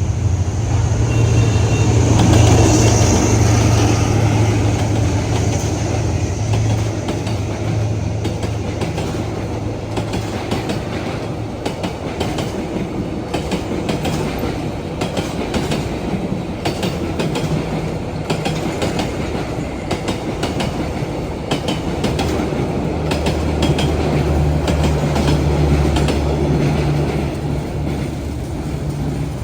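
Diesel-hauled passenger train passing close by: a loud locomotive engine hum at first, then the wagons' wheels clattering over the rail joints in quick, uneven clicks, with the engine hum swelling again near the end.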